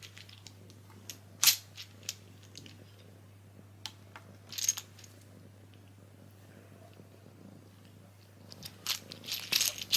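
Wooden Scrabble tiles clicking and clattering as they are knocked about: scattered single clicks, the loudest about one and a half seconds in, and a quicker run of clatters near the end, over a steady low hum.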